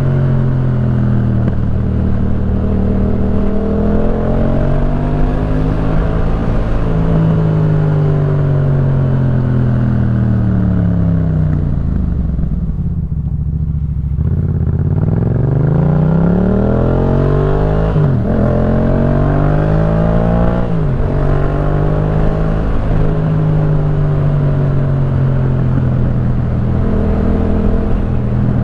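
A Yamaha MT-07's 689 cc parallel-twin engine running through a Jeskap K4 full aftermarket exhaust, heard from the rider's seat on the move. The revs rise and fall as the bike is ridden and drop away as it slows about halfway through. They then climb again, broken by two quick upshifts.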